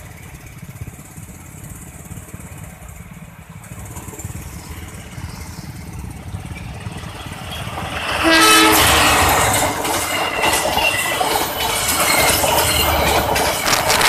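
Passenger train headed by a diesel locomotive approaching and passing close by. A low rumble builds for about eight seconds, the locomotive gives one short horn blast, and then the coaches go past with a loud, steady rush of wheel and rail noise.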